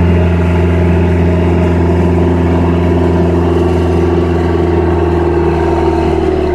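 Cummins diesel engine of a Joy portable air compressor running steadily just after a cold start, beginning to slow toward idle right at the end.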